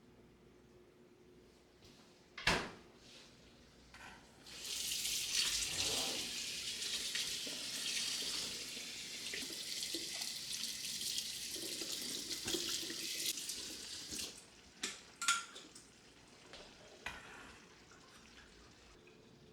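Water tap running into a sink for about ten seconds, then turned off. A sharp knock comes a couple of seconds before the water, and a few light knocks and clicks follow it.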